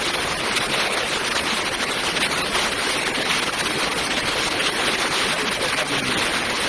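Fast-flowing floodwater rushing in a steady, loud, unbroken hiss.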